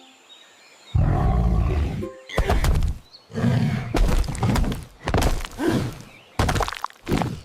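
Cartoon sound effects: a run of about six loud thunks and knocks, each lasting well under a second, with short gaps between them.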